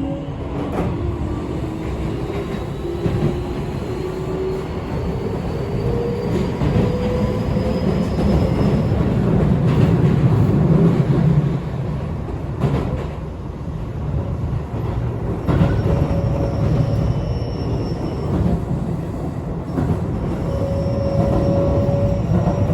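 Keio 8000 series electric train running between stations just after departure: its traction motors whine in thin tones that rise in pitch as the train accelerates, over a steady rumble of wheels on rail.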